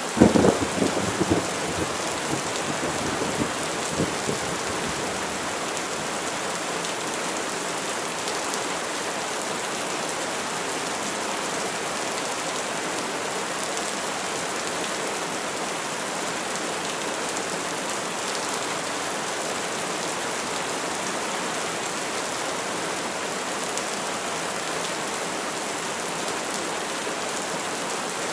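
Steady heavy rain, with a sharp crack of thunder right at the start that rumbles on for about four seconds before fading back into the rain.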